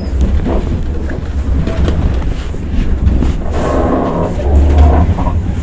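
Inside an intercity train carriage: a steady low rumble with scattered knocks and rattles. About three and a half seconds in, a busier, rattling noise joins and it gets a little louder.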